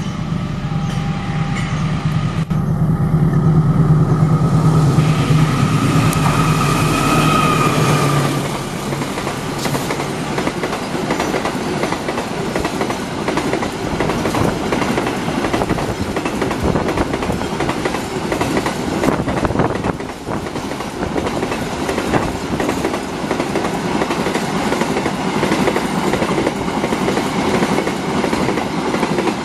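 A CC 206 diesel-electric locomotive passes close at speed, its engine a loud low hum for the first eight seconds or so. Then the container flat wagons roll by, a steady rush of wheels on rail with a fast clatter over the rail joints.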